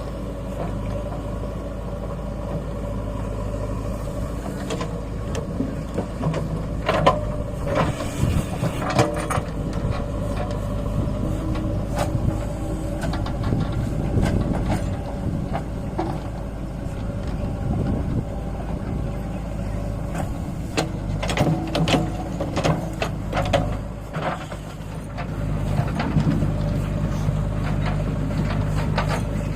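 Heavy diesel engine running steadily under load, with scattered metallic knocks and clanks.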